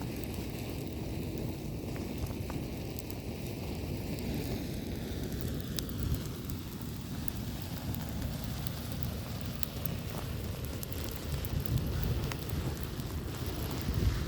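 Large bonfire of loose matches burning: a steady hiss and rush of flame from the burning-out match heads, with scattered small crackles and pops that come more often near the end.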